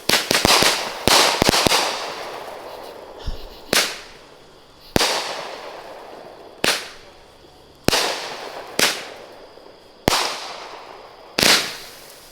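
A T-Sky 'Midnight Champagne' firework cake firing shells that burst with sharp bangs: a rapid cluster in the first second and a half, then single bursts every second or so, each trailing off.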